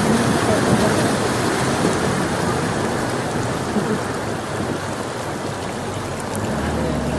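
Loud, steady rushing of river water. A low engine hum comes in near the end.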